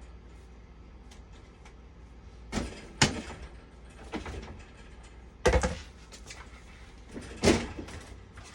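Several separate knocks and clatters of hard objects being handled, the loudest about three seconds in, again around five and a half seconds and near seven and a half seconds, over a low steady hum.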